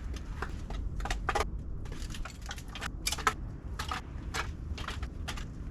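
Dry leaves and twigs crunching and crackling in irregular sharp clicks, over a steady low rumble of wind on the microphone.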